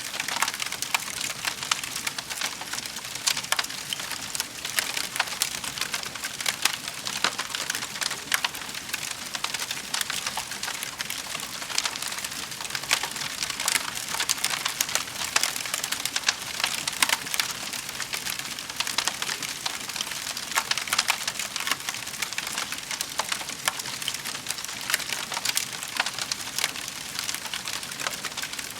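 Wood fire burning in a fireplace, with a steady hiss and dense, irregular crackling and popping of the burning logs.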